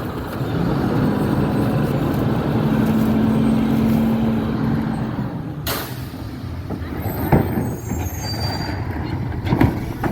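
Garbage truck running, its engine drone swelling and holding for several seconds. About halfway through comes a short, sharp hiss of air, and after it a few knocks and faint high squeals.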